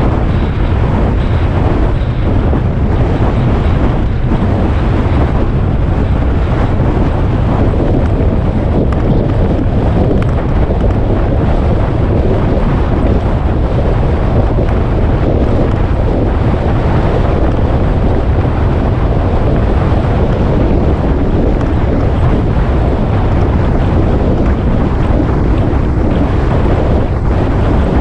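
Wind rushing over the microphone on a moving motorcycle, mixed with engine and road noise: a loud, steady rumble that stays even throughout.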